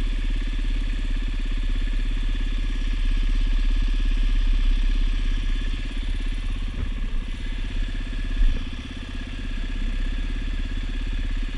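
Dirt bike engine running while riding, a little louder about three to five seconds in and easing off after about six seconds, with one short knock about eight and a half seconds in.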